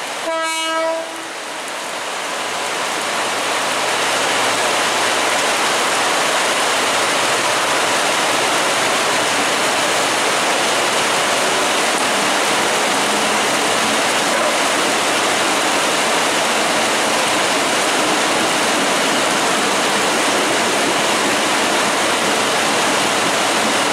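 Heavy rain pouring down: a dense, steady hiss that builds over the first few seconds and then holds. A short pitched tone sounds just before one second in.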